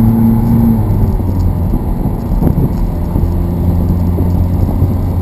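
Sports car engine running steadily under way; its note changes about a second in, then holds.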